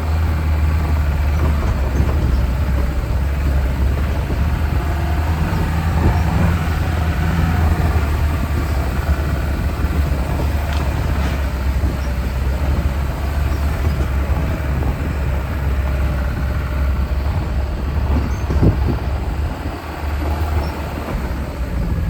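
Niva 4x4 being driven, its engine running as a steady low drone, with an occasional knock or rattle from the vehicle over rough ground.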